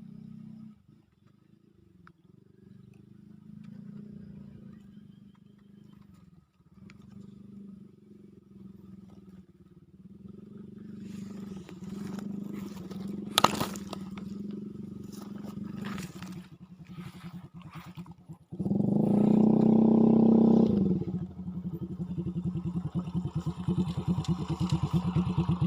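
A small engine running steadily at low revs with a rapid pulsing beat. It runs louder for about two seconds past the two-thirds mark, and there is one sharp click about halfway.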